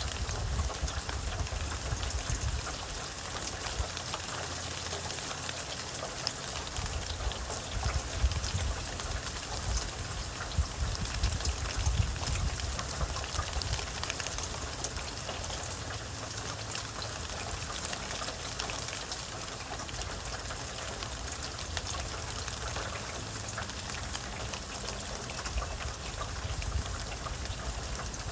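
Steady rainfall, with many individual drops ticking sharply over an even hiss and a few louder drop hits.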